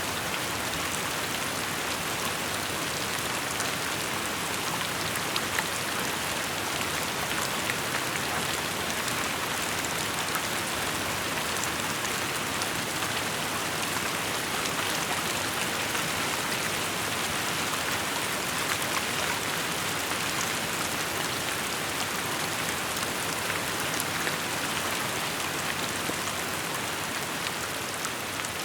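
Steady rain falling on surfaces: a continuous even hiss with scattered individual drops pattering.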